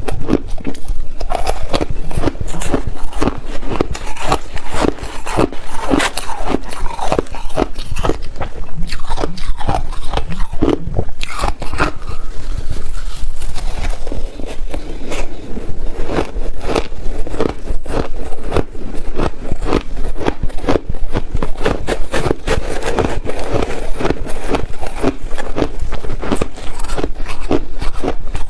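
Ice being bitten and chewed close to the microphone: a dense, unbroken run of crisp crunches, many each second.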